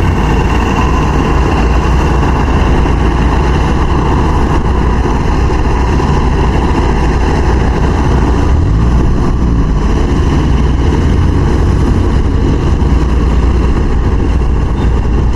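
Farm machine's diesel engine running steadily and loud, its pitch shifting briefly about nine seconds in.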